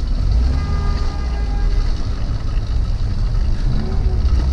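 Small engine of a motorized bicycle running steadily while riding in traffic, with a heavy low rumble of wind and road noise.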